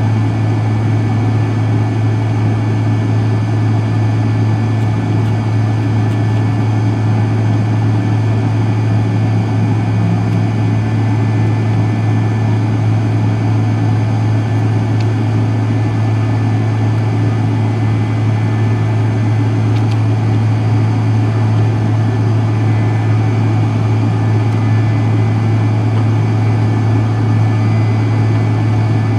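Steady cabin drone of a McDonnell Douglas MD-83's rear-mounted Pratt & Whitney JT8D turbofan engines, heard from inside the rear cabin, with a strong low hum under an even rushing noise.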